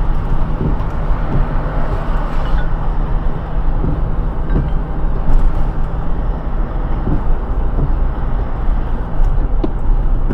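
Car driving on a wet road in the rain: steady tyre and road noise over a low engine hum, with a few faint ticks.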